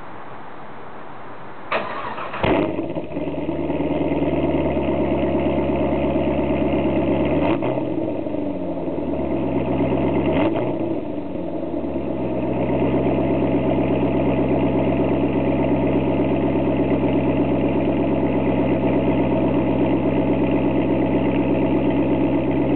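A Pontiac GTO's 6.0 L LS2 V8, fitted with a Corsa sport cat-back exhaust, cranks and fires about two seconds in on a cold start. It settles into a steady idle with two brief rises and falls in engine speed along the way.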